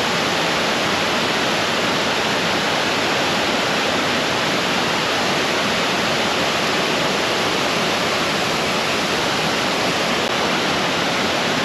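Steady rush of fast-flowing creek water pouring in over falls, an even noise with no breaks.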